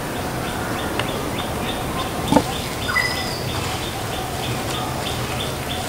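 Birds calling: a steady series of high chirps at about four a second, a short whistled note about three seconds in, and a brief louder call a little over two seconds in.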